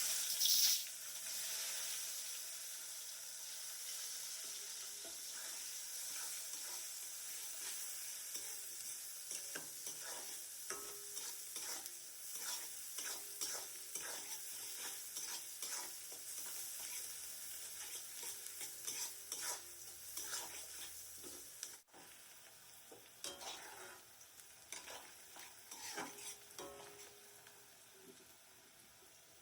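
Food frying in hot oil in a pan: a loud sizzle that is strongest in the first second and slowly dies down, with a spatula scraping and clicking against the pan as it is stirred.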